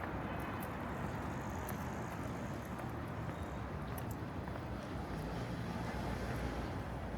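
Steady city street ambience: the even noise of road traffic, with a few faint clicks over it.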